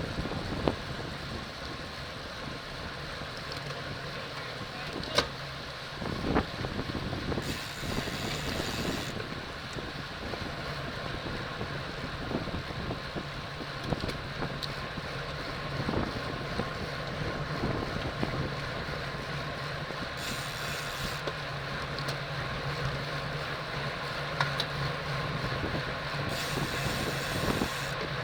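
Racing bicycle ridden at speed in a bunch: steady wind rush on the microphone and tyre and road noise, with scattered clicks and knocks and a few short bursts of hiss.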